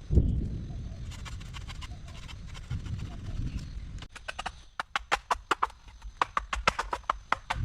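A low rumbling thud, then about halfway a quick, irregular run of sharp knocks, several a second.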